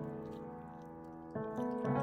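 Soft background piano music: a held chord dies away, then new notes come in about one and a half seconds in.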